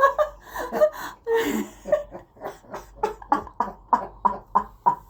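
A person laughing: irregular laughs at first, then a steady run of short 'ha' pulses, about three a second, in the second half.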